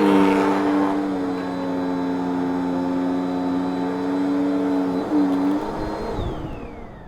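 Vacuum cleaner motor running with a steady whine. About six seconds in it is switched off, and its high whine falls in pitch as the motor winds down.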